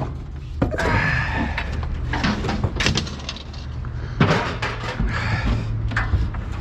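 Heavy scrap metal being thrown down onto a pile: a series of clanging crashes and knocks, over a low steady hum.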